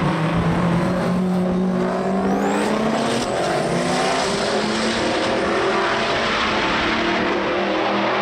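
Race car engines running loud, their pitch rising between about two and four seconds in as they accelerate.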